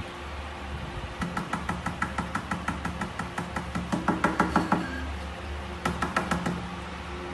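A rapid series of sharp taps or knocks, about seven a second, growing louder about four seconds in, then a shorter run of taps near the end, over a steady low hum.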